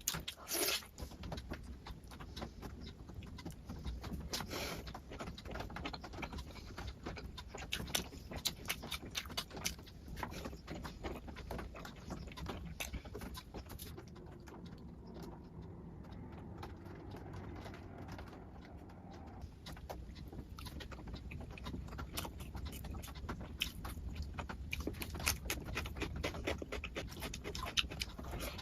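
Close-miked eating sounds: a person chewing and smacking wet rice and curry, with many small wet clicks and crackles from the mouth, a little softer for a few seconds midway.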